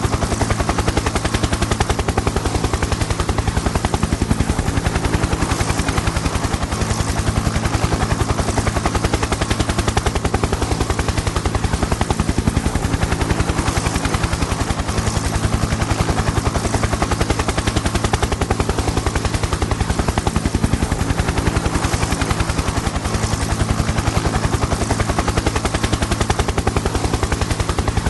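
Helicopter in steady flight: a rapid, even chop of the rotor blades over a steady engine drone, holding the same level throughout.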